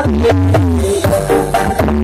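Music played loud through a large carnival sound system of stacked subwoofers and line-array speakers, with heavy, sustained bass notes under a melody.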